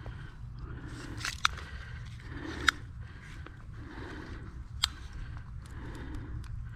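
Handling noise while a fish is laid out and measured: faint rustling and shuffling, broken by three sharp clicks or taps.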